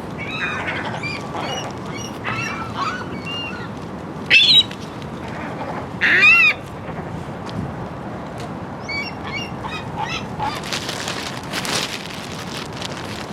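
Seagulls calling, many short squawks with two loud calls about four and six seconds in, over a steady background hiss.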